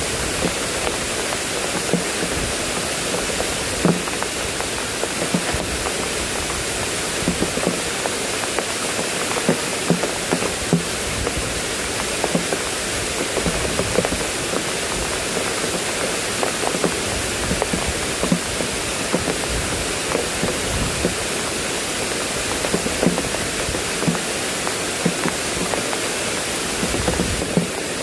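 Heavy rain falling: a steady hiss with frequent sharp drop hits.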